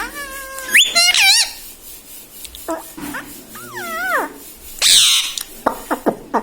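Ring-necked parrot calling. It gives a held whistle that jumps up in pitch, several swooping whistled calls, a harsh squawk about five seconds in, and short sharp chirps near the end.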